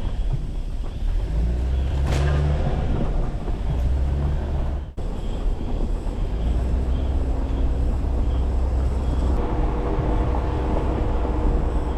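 Jeep Wrangler driving slowly on a rough, rutted dirt forest road: a steady low engine and drivetrain rumble with tyre and road noise, dropping out for an instant about five seconds in.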